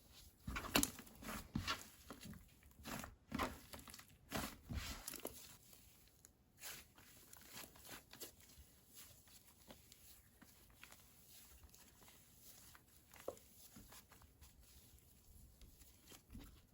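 Slime being squished and stretched by hand, giving irregular sticky clicks and pops, thick over the first six seconds or so and then sparse.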